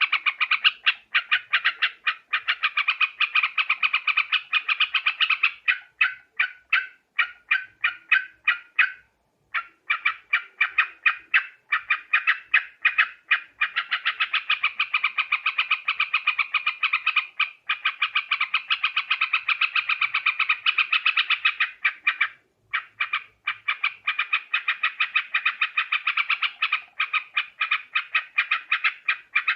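Yellow-vented bulbul (trucuk) song: fast, chattering runs of repeated bubbly notes that go on almost without a pause, breaking off briefly a few times. It is a lure-call recording for drawing wild bulbuls in.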